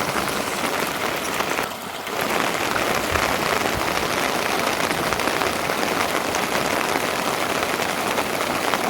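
Steady heavy rain pattering on a surface, dense and even, dipping briefly about two seconds in.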